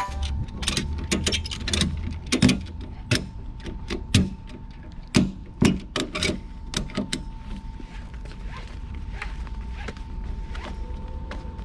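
A series of sharp mechanical clicks and knocks at an uneven pace over a low steady rumble. The clicks thin out after about seven seconds, leaving the rumble and a faint steady tone.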